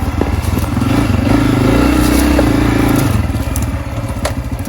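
Honda CRF250F's single-cylinder four-stroke engine running at low speed, with the throttle opened for about two seconds and then eased off again. A sharp click comes near the end.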